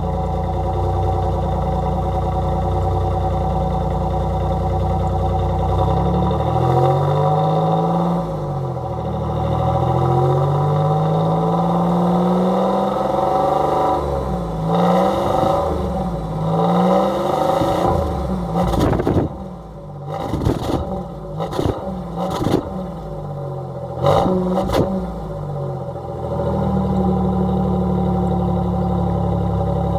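1988 Oldsmobile 98 Regency Brougham's exhaust idling steadily, then revved over and over: several slow climbs and falls in pitch, followed by a run of quick sharp blips of the throttle. It settles back to a steady idle about four seconds before the end.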